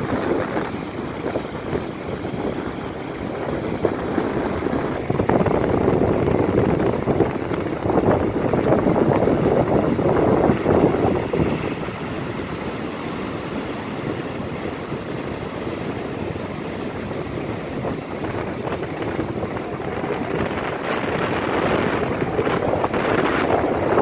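Wind buffeting a phone's microphone over the rush of ocean surf, rising and falling in gusts, with a louder stretch about five seconds in and again near the end.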